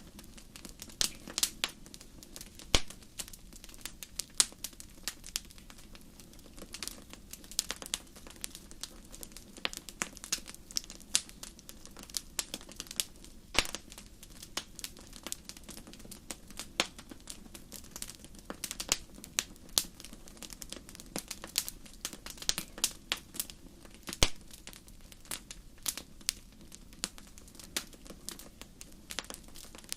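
Wood fire in a fireplace crackling, with quick irregular snaps and a few sharp, louder pops, over a steady low background of the burning.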